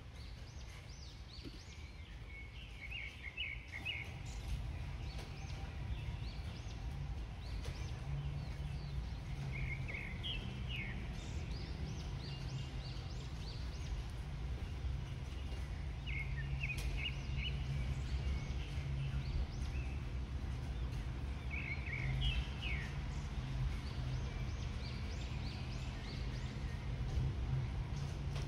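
Birds singing outdoors: short bursts of quick, high chirps every five or six seconds, over a steady low rumble that gets louder about four seconds in.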